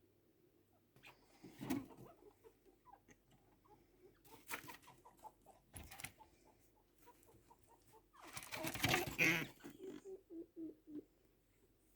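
Chinchillas' mating calls: runs of short, quick clucking calls, with a louder, noisier outburst about eight seconds in.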